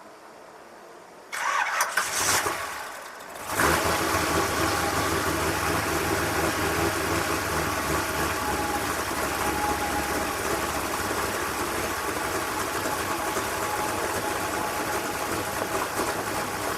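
A car engine starting: a loud burst about a second and a half in, a brief lull, then from about three and a half seconds the engine catches and runs steadily.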